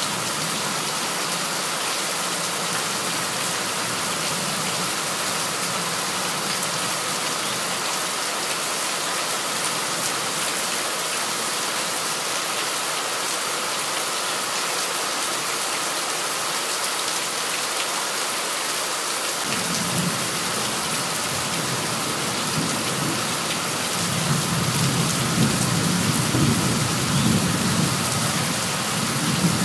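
Heavy tropical-storm rain pouring down steadily. About two-thirds of the way through, a low rumble comes in under the rain and grows louder near the end.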